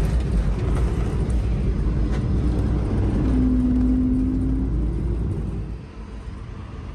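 Low, steady rumble of an Airbus A220-300 jet airliner, with a brief steady hum about three seconds in; the rumble falls away about five and a half seconds in.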